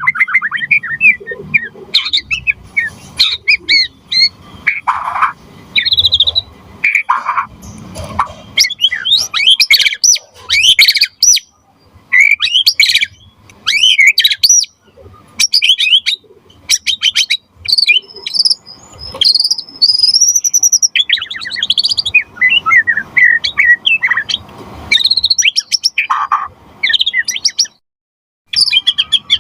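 White-rumped shama singing in a fast, varied stream of whistles, trills and chirps, with short pauses between phrases and a brief break shortly before the end.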